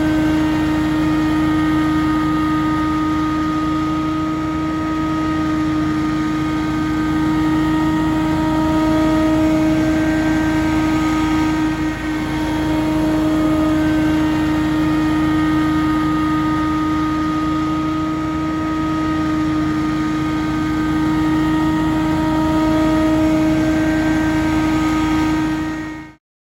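Scag Windstorm ride-on leaf blower's 37-horsepower engine and fan running steadily with a constant drone, cutting off abruptly near the end.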